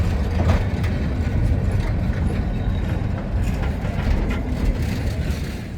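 Low, steady rumble of a train running on the line, with a few scattered clicks and no whistle sounding.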